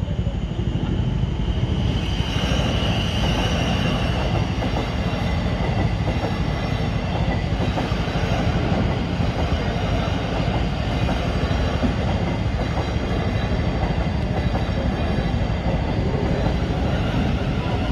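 A South Western Railway Class 707 electric multiple unit passing over the level crossing: a steady, loud rumble of wheels on the rails with some clatter, and a higher ringing tone from the wheels and rails that rises about two seconds in and slowly fades.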